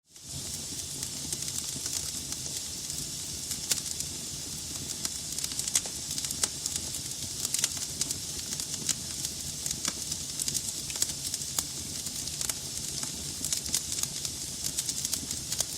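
Wood logs burning in a fireplace: a steady hiss of flame with frequent sharp, irregular crackles and pops. The sound comes back in from a brief dropout at the very start.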